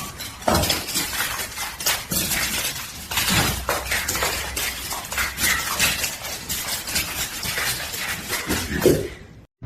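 Continuous rapid clattering and clinking, many small knocks in quick irregular succession.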